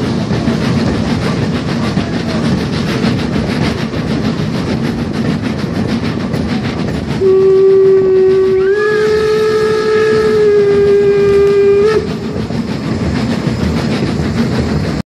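Steady rumble and clatter of a museum train's carriages running on the track. From about seven seconds in, the locomotive sounds one long single-tone signal for nearly five seconds, its pitch stepping up slightly partway. The sound cuts off abruptly just at the end.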